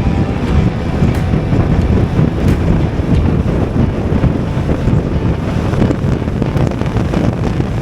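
Steady wind rushing and buffeting over the microphone of a moving motorcycle, a loud low rush that never lets up.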